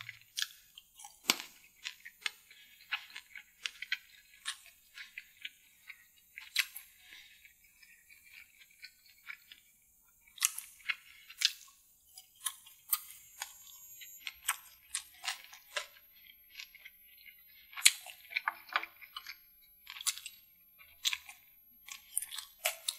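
Close-miked mouth sounds of eating: wet chewing and lip smacks, heard as irregular sharp clicks, with a brief pause about nine seconds in.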